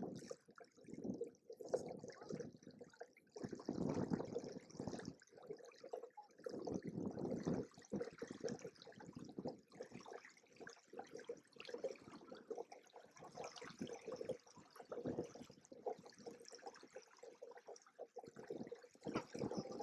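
Lake water splashing and gurgling against the hulls of a Hobie Cat 16 catamaran under sail, in uneven surges.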